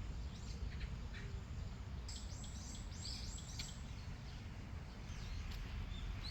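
Small birds chirping, with a quick run of about six high, falling notes about two seconds in and a few fainter chirps around it, over a steady low rumble.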